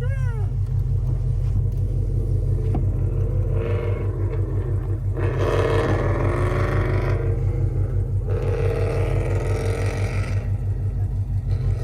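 Dodge Charger Super Bee's 392 HEMI V8 idling with an even, pulsing low rumble. Twice, for a few seconds each, a louder engine sound rises and falls over it.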